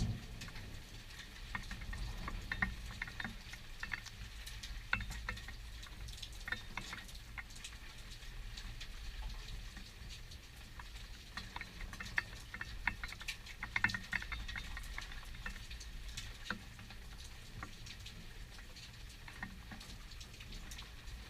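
Steady rain during a thunderstorm, pattering and dripping in many small irregular ticks, over a low steady rumble.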